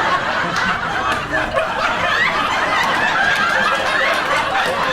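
Audience laughing: many people chuckling and tittering at once, steady throughout.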